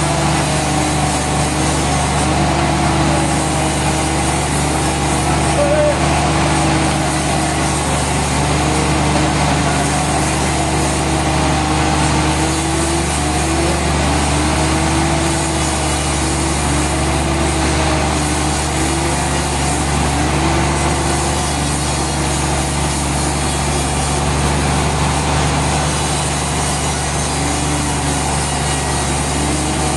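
Sawmill machinery running: a loud, steady machine drone with a higher tone that wavers up and down in pitch.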